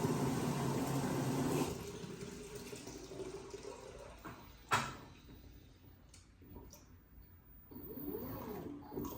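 Water filling the LG WT16WV6 top-load washing machine, cutting off about a second and a half in. A single knock comes near the middle, and a low swishing starts up near the end.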